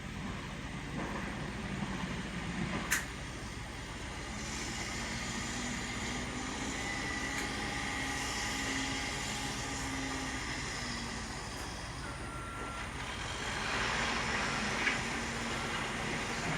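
Backhoe's diesel engine running steadily while it works gravel, with a sharp click or clank about three seconds in and a brief higher-pitched whine near the end.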